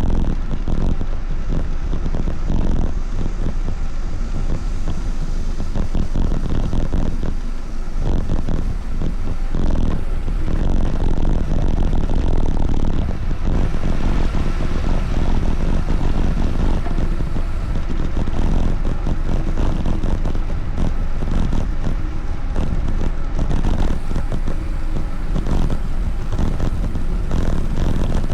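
Steady wind rush buffeting the microphone while riding, a loud rough rumble that flutters constantly.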